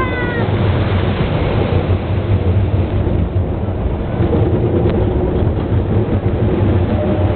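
Roller coaster car running along its track: a loud, steady rumble with rushing noise, the car's wheels and the wind of the ride.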